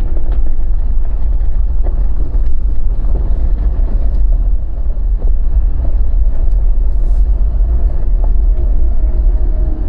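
Jeep Gladiator driving slowly over a rough, icy dirt trail: a steady low rumble of engine and tyres, with scattered small knocks and crunches.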